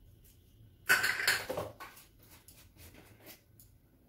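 Kitchen utensils clattering against a dish about a second in, followed by a few lighter clicks and taps.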